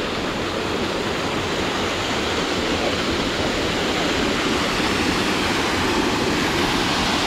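Steady rush of a waterfall and creek, growing slowly a little louder.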